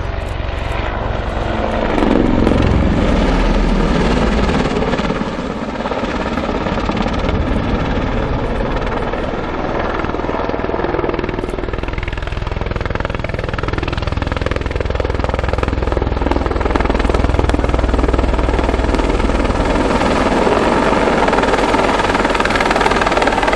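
Boeing AH-64 Apache attack helicopter flying close during a quick stop into the hover: its main rotor and twin turboshaft engines run loud and continuous. The sound swells about two seconds in and again through the second half.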